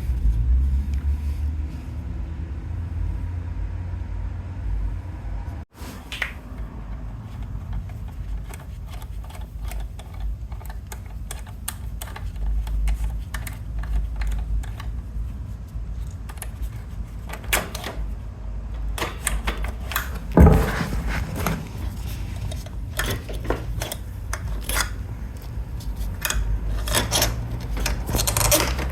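Irregular metallic clicks, clinks and knocks over a steady low rumble, with one louder knock about twenty seconds in: tools and small metal parts being handled.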